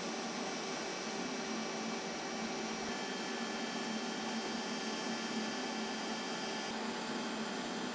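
Steady electric machine hum with several fixed tones over a hiss. There are no hammer strikes. The tones shift slightly about three seconds in and again near the end.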